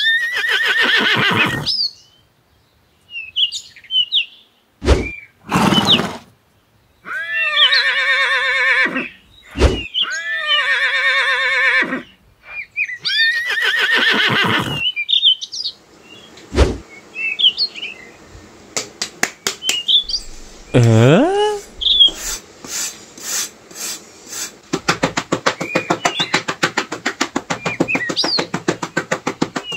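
A series of horse whinnies, each a shaky, wavering call of one to two seconds, with small bird chirps between them. From about halfway there is scraping of a metal trowel over sand, which becomes a fast run of short strokes near the end.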